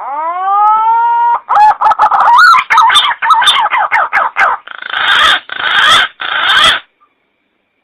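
Recorded bird calls played as a hunting lure: a drawn-out note that rises and levels off, then a quick run of wavering, warbling notes, then three harsher calls, cutting off abruptly near the end.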